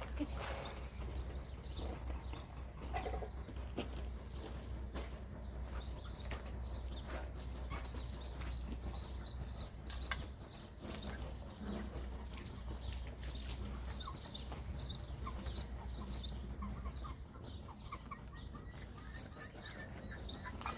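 Birds chirping over and over in short high calls, with a low steady rumble underneath that stops about three-quarters of the way through.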